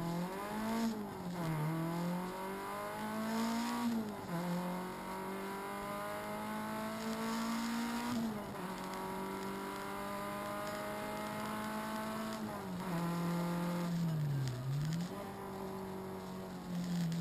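Renault Clio RS rally car's four-cylinder engine heard from inside the cabin, accelerating hard through the gears. The revs climb for several seconds at a time and drop sharply at each upshift, about every four seconds. Near the end the revs fall away as the car slows, then pick up again.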